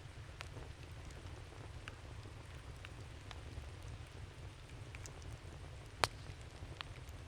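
Wood campfire crackling: scattered sharp pops and snaps over a steady low rumble, with one louder pop about six seconds in.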